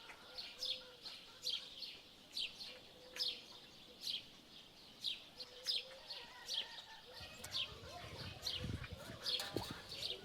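A small bird chirping repeatedly: short, high, falling chirps about once a second. Some low rustling comes in during the second half.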